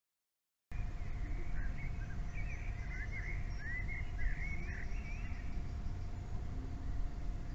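Outdoor ambience: several birds chirping over a steady low rumble of wind on the microphone, with a faint steady tone underneath. It starts abruptly a moment in, after silence.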